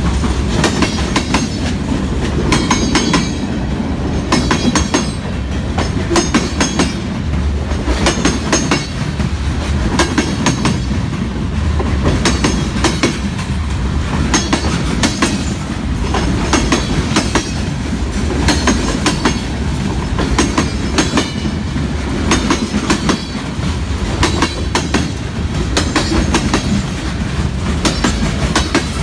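Freight train cars rolling past close by: a steady low rumble of steel wheels on the rails, with a quick run of clicks each time a wheelset crosses a rail joint, and short high metallic squeals from the wheels now and then.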